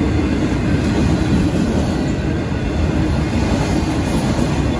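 Freight train of autorack cars rolling past close by: a steady rumble of steel wheels on the rails.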